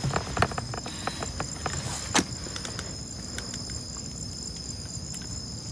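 Crickets chirring steadily, with scattered clicks and knocks over the first couple of seconds and one sharp click about two seconds in.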